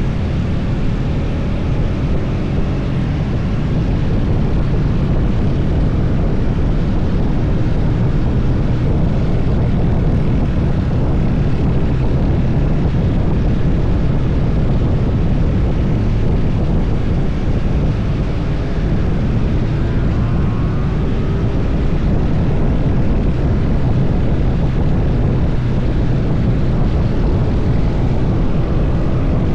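Motorcycle engine running steadily at road speed, with wind rushing past.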